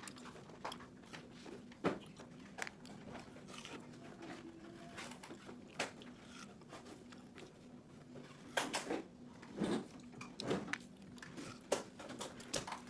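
Watermelon being bitten and chewed: irregular wet crunches and smacks, a few louder ones in the second half, over a faint steady hum.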